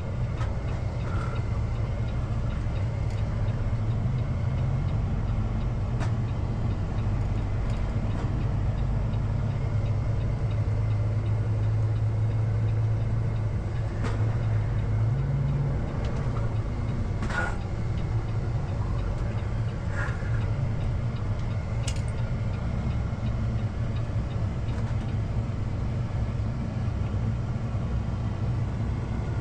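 Peterbilt semi truck's diesel engine running with a steady low drone, its pitch stepping up briefly about halfway through, with a few faint clicks.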